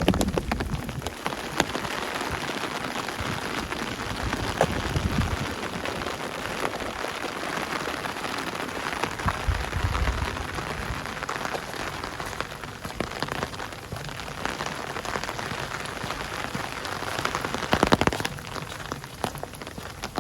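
Steady rain falling, a dense patter of drops, with a few dull low thuds.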